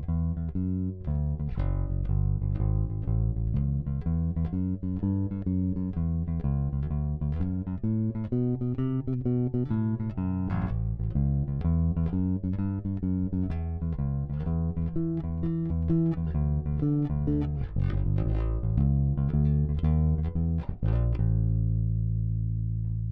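Electric bass guitar played solo, recorded direct: a long run of plucked notes and lines, ending on one note left to ring out and slowly fade.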